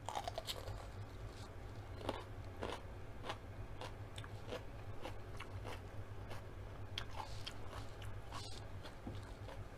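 Biting into a raw yellow sweet pepper with a crisp crunch at the start, then chewing it with scattered crunches, over a steady low hum.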